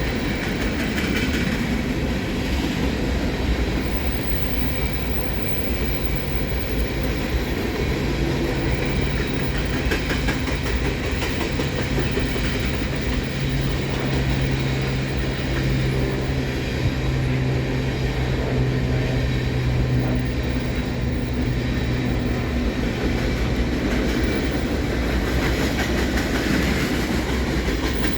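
A long freight train rolling past, its cars making a steady noise of steel wheels on rail with a fine, even clatter. A low steady hum comes in about a third of the way through and fades again well before the end.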